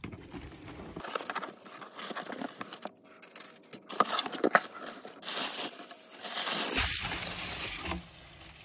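Packing tape tearing and cardboard and packaging crinkling as a taped-up shipping box is pulled open, in an irregular run of rustles and rips.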